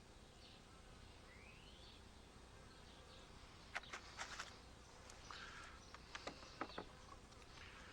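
Quiet background with a short rising bird chirp about a second in, then a few light clicks and taps from beehive equipment being handled, as sugar-water feeding is set up on the hive.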